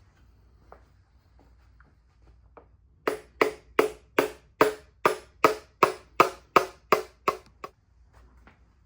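A run of about fourteen evenly spaced sharp knocks, roughly three a second, starting about three seconds in and stopping after about four and a half seconds.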